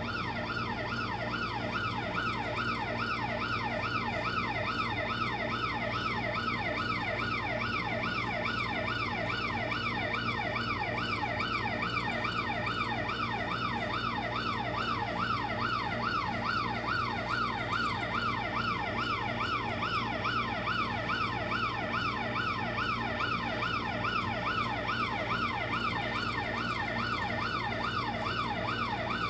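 Electronic fast yelp siren of a custom-built fire engine: rapid, evenly repeated sweeps that rise in pitch and drop back sharply, over a steady low hum.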